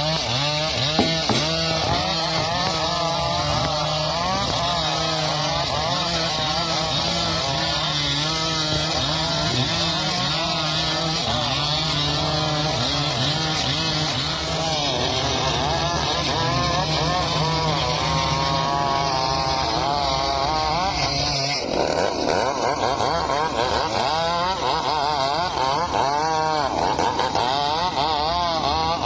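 Chainsaw running and cutting wood, its pitch wavering up and down as the chain works through the cut. About two-thirds of the way through the sound changes abruptly, as the low end drops away.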